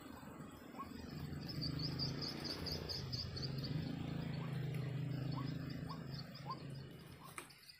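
Animal calls: a rapid series of high chirps, several a second, over a steady low drone that fades near the end.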